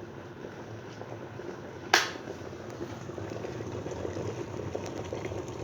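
Hölmer electric kettle at a full boil, its water rumbling and bubbling steadily, with one sharp click about two seconds in: the kettle's automatic switch cutting off as the water boils.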